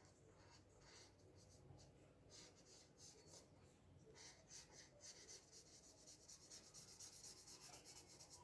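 Faint marker strokes on paper as butterflies are coloured in: scattered scratches at first, then quick back-and-forth coloring strokes from about halfway through.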